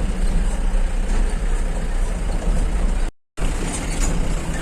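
Steady rumble of a moving vehicle's engine and road noise on a rough, bumpy dirt road. The sound cuts out completely for a moment about three seconds in.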